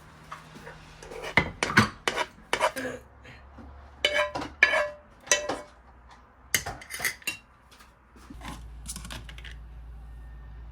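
Dishes and cutlery being handled: a run of sharp clinks and knocks in clusters, some ringing briefly. Near the end the clinking stops and a low steady hum comes in.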